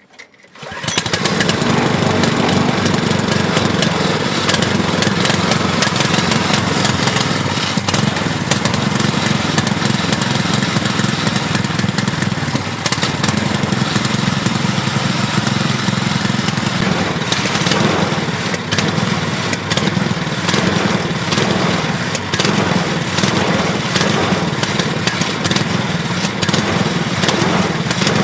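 Small carbureted engine of a walk-behind power carrier starting about half a second in and running steadily at raised throttle with the choke pulled. The engine has a dirty carburetor and stalls when the throttle is lowered.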